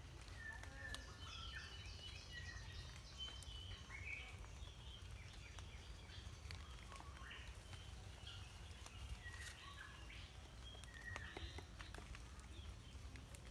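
Forest birds chirping and calling in short repeated phrases over a steady low rumble, with a few faint sharp taps.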